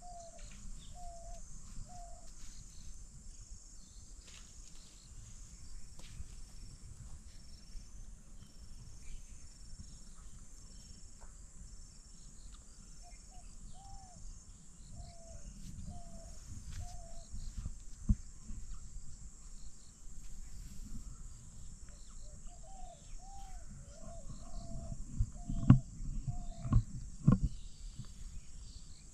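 Riverbank ambience: a bird repeats runs of short, clear notes, several times, over a steady high insect hiss. Near the end come a few sharp knocks, which are the loudest sounds.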